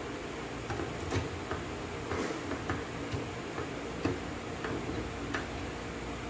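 Light clicks and taps at uneven intervals, from metal parts and tools being handled during the assembly of an automatic transaxle, over a steady background hum.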